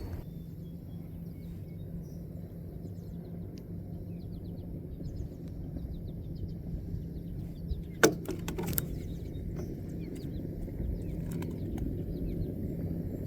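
Small birds chirping over a steady low hum, with a short cluster of sharp knocks about eight seconds in.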